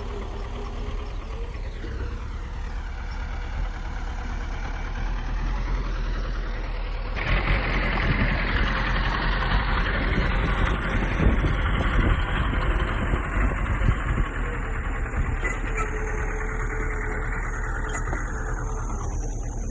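Heavy diesel engine of earthmoving machinery running with a steady low rumble. About seven seconds in it grows louder, with added rushing noise and irregular knocks, then eases a little near the end.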